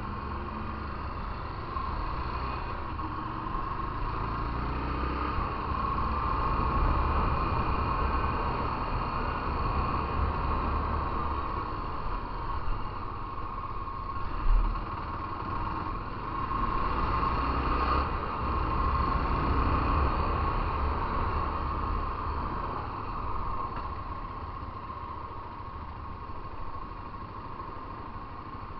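Motorcycle on the move, its engine running under way with wind and road noise that swell and ease with speed. A short loud thump comes about halfway through.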